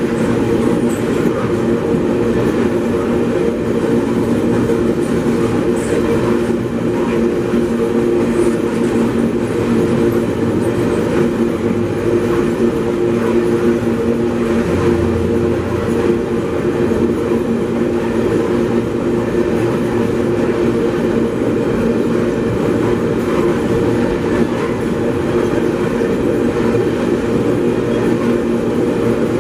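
Empty GDU iron-ore gondola wagons rolling past close by, their steel wheels on the rails making a steady, loud running noise with a few constant low tones in it.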